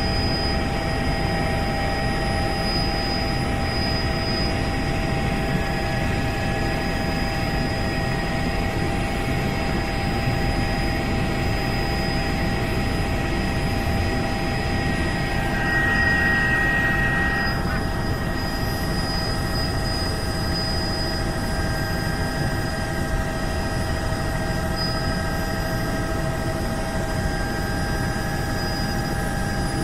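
Helicopter running steadily: a constant low rumble with several steady whining tones over it. A brief higher tone joins in about halfway through, then fades.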